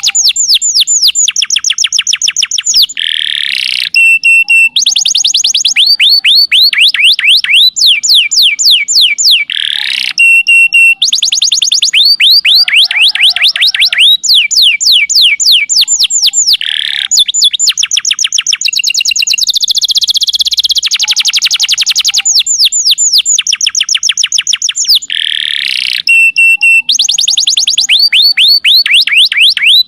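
Domestic canary singing a loud, unbroken song of rolling trills. It runs through quick falling notes at about seven a second, switches to a new trill every few seconds, and puts a short buzzy rattle between some phrases.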